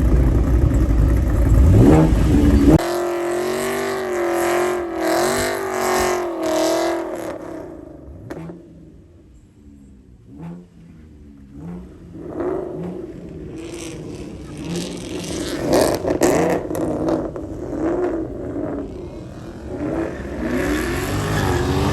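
Car engines revving and accelerating. A loud rev with a rising pitch cuts off sharply about three seconds in. Further revs rise and fall, fading for a few seconds in the middle before building again toward the end.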